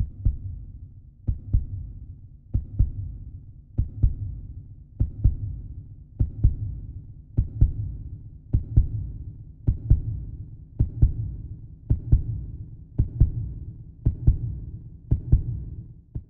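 Slow heartbeat sound effect: a double thump (lub-dub) about every 1.2 seconds over a steady low hum.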